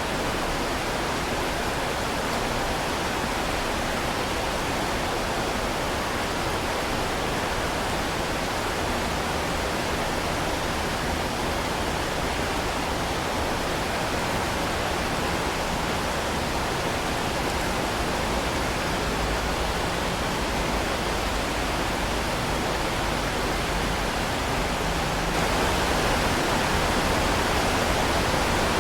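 Heavy rain falling steadily as an even hiss, stepping up slightly louder near the end.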